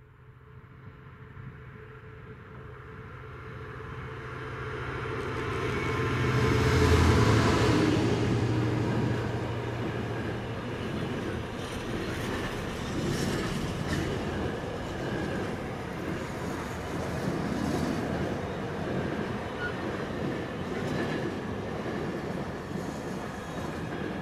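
A Class 66 diesel locomotive approaching and passing at speed. Its engine grows louder to a peak about seven seconds in. A long intermodal container train follows, rolling by as a steady rumble with scattered clicks of wheels on the track.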